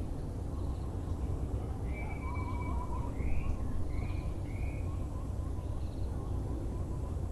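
Birds calling over a steady low background rumble: a Muller's barbet repeating a low, pulsed call, with short chirping phrases from other birds from about two to five seconds in.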